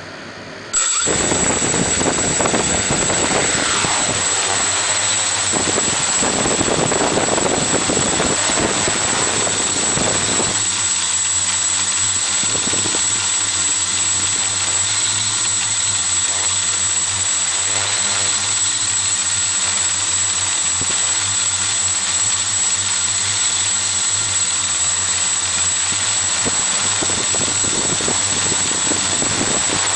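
Xaircraft X650 quadcopter's four electric motors and propellers spinning up suddenly just under a second in, then running steadily in flight with a constant high whine, heard through the camera mounted on the craft. For the first ten seconds or so the sound is rough and gusty before it settles.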